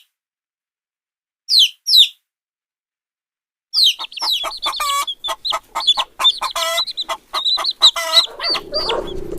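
Two short high falling cries, then from about four seconds in a dense chorus of high, quick peeping from young chicks.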